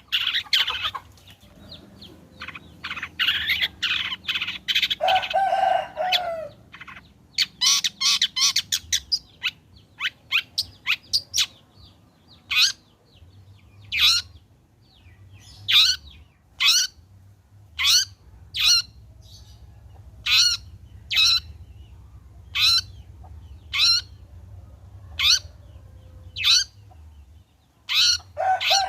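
Long-tailed shrike (cendet) singing: a burst of harsh, chattering notes at first, then a long run of sharp single calls repeated about once a second.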